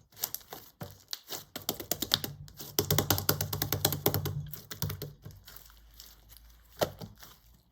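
Clear slime full of air bubbles being squeezed and worked by hand: a quick run of small crackling clicks and pops, densest in the middle and thinning out toward the end.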